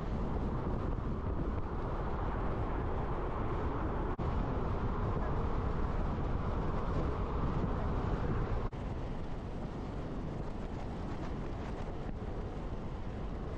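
Steady rumble of wind and road noise from a truck on the move, briefly dipping about four and nine seconds in.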